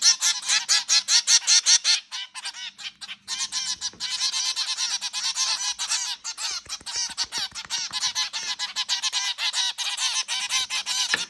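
A group of zebra finches calling: a dense chatter of short, repeated calls, many a second, thinning out briefly about two seconds in before picking up again.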